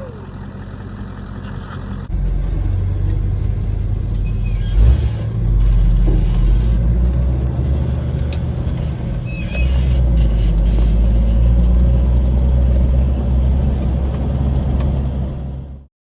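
1979 Ford pickup truck's engine running with a steady low drone, growing louder about two seconds in and again near ten seconds, with a short knock around five seconds. The sound cuts off abruptly near the end.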